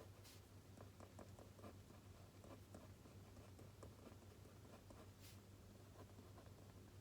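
Faint scratching and tapping of a pen writing on paper, over a low steady hum.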